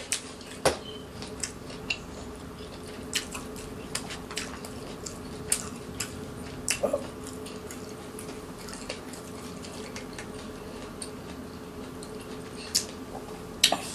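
A person eating close to the microphone: scattered wet mouth clicks and smacks of chewing, with a few louder sharp clicks. A steady low hum runs underneath.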